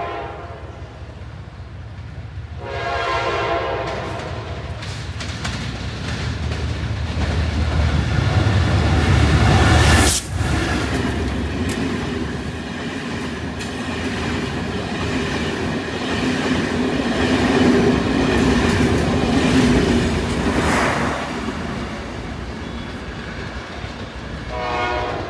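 Egyptian National Railways passenger train: a diesel locomotive's horn sounds about three seconds in, then the train passes close by, the engine rumble building and the coaches' wheels clattering over the rail joints. Another short horn blast comes near the end.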